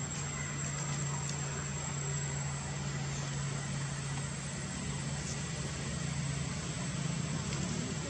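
A steady low hum like an idling engine, under a thin, steady high whine.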